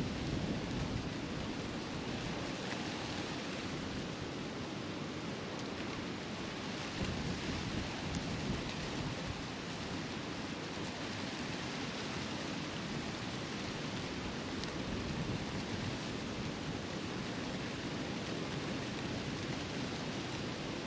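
Steady rushing noise with uneven low rumbling: wind buffeting the microphone.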